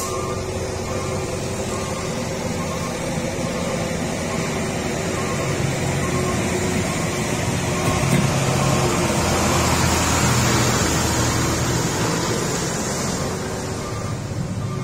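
Heavy truck diesel engine running under load, with a steady low drone that grows louder about eight seconds in and eases off near the end.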